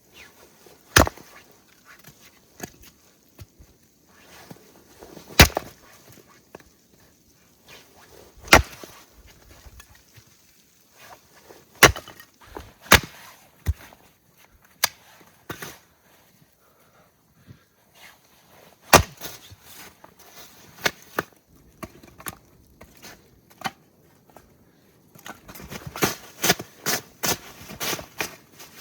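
Firewood being chopped: single sharp strikes a few seconds apart, then a quicker run of lighter knocks near the end.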